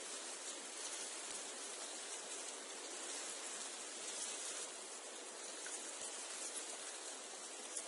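Wind rustling through reeds and sedge, a steady dry hiss with small swells. It cuts off abruptly right at the end.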